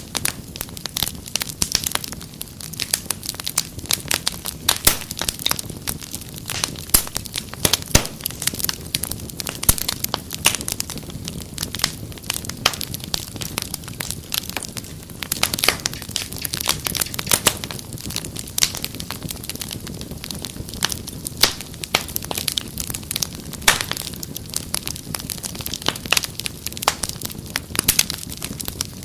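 Wood fire crackling steadily in a fireplace: a dense run of irregular sharp pops and snaps over a low rumble of the flames.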